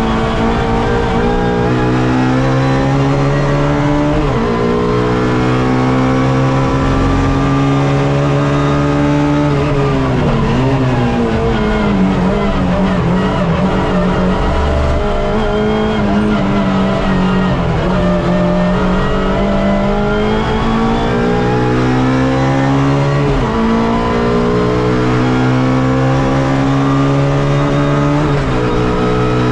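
Suzuki Swift race car engine heard from inside the car at full throttle, its pitch climbing through the gears with an upshift about four seconds in. Around ten seconds in the revs fall away unsteadily under braking, bottom out, then climb hard again with two more upshifts near the end.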